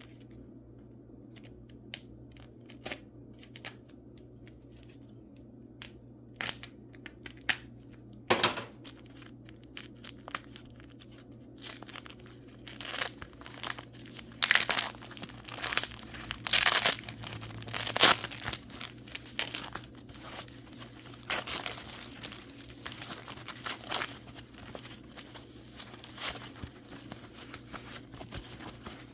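Paper packing being crumpled and torn by hand as wrapped mineral specimens are unpacked, in scattered crackles that grow busier and louder for several seconds midway.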